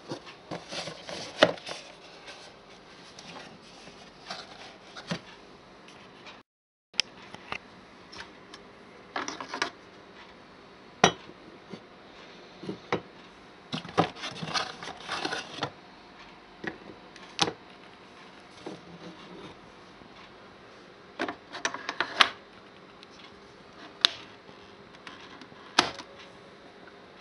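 Scattered sharp clicks, knocks and short bursts of light clatter from a cup, capsule and the parts of a Dolce Gusto capsule coffee machine being handled, with no pump running. The sound cuts out completely for about half a second early on.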